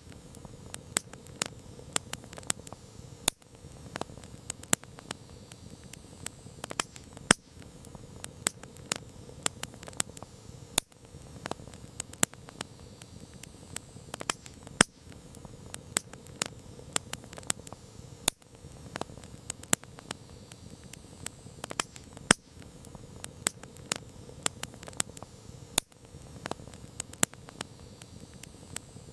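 Wood campfire crackling: frequent sharp pops and snaps of burning wood, irregular and of varying strength, over a soft steady hiss of the flames.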